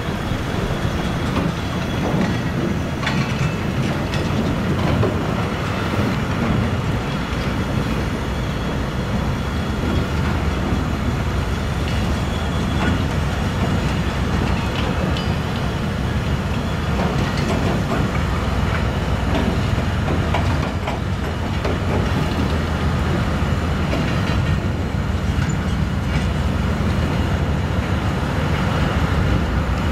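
Long freight train of grey silo (powder hopper) wagons rolling past, a steady rumble of wheels on rail with scattered clicks as the wheels cross rail joints.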